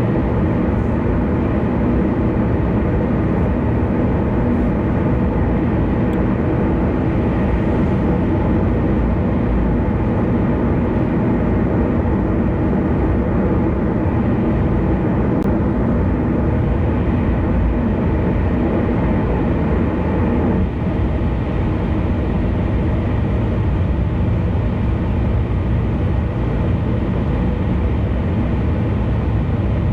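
Steady road noise of a car cruising on an expressway: tyre and wind noise as a continuous low rumble, easing slightly about two-thirds of the way through.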